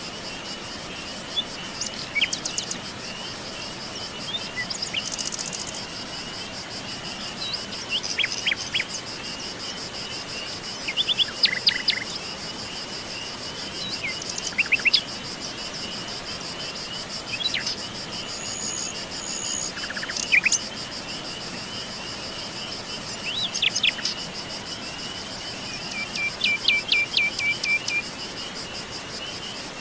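Forest birds calling and singing in short phrases every few seconds, including a quick run of repeated notes near the end, over a continuous high-pitched insect trill.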